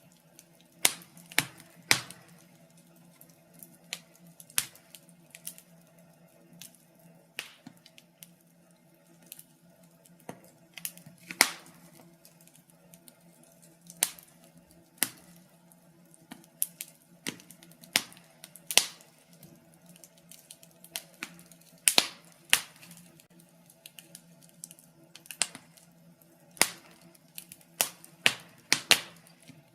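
Wood fire in a fireplace crackling: irregular sharp pops and snaps, some loud and some faint, scattered at uneven intervals over a faint steady low hum.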